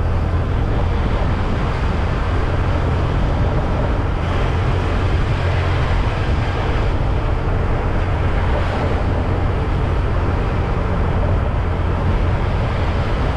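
Motorcycle riding steadily along a road: the engine runs evenly under a constant deep rumble of wind on the action camera's microphone.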